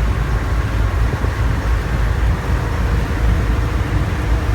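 River boat's engine running steadily under way, a loud low rumble with rushing wind and water noise over it.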